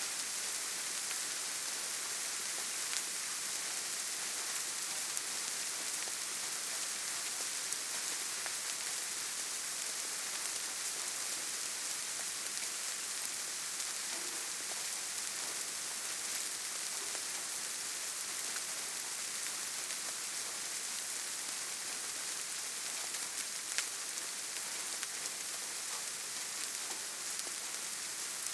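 Steady rainfall in a forest: an even, hissing patter with scattered sharper drop ticks, one of them louder about three-quarters of the way through.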